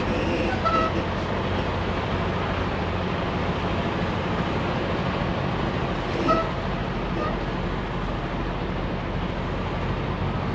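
Semi-truck running down the road: a steady low engine drone with tyre and road noise. A couple of faint short squeaks come about half a second in and again near six seconds.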